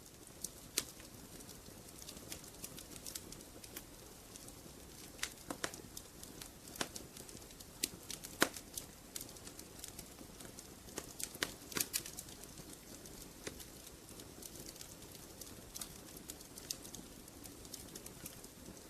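Wood fire crackling in a fireplace: irregular sharp pops and snaps over a soft, steady hiss, with a few louder pops near the middle.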